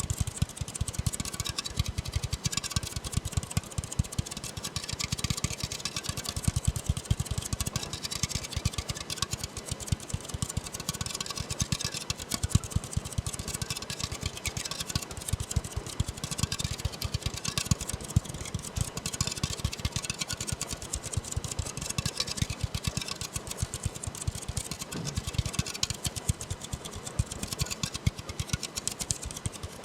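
Fingers tapping rapidly and continuously on an aluminium soda can: a dense run of quick, sharp taps with no pauses.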